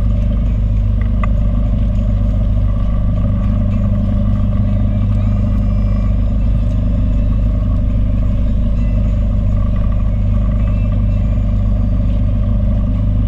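Boat engine running steadily under way: a constant low drone with an even hum.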